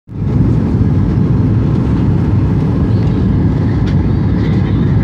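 Steady low rumble of a Boeing 737-800's cabin noise, heard from inside the cabin: its CFM56 jet engines and the airflow over the fuselage.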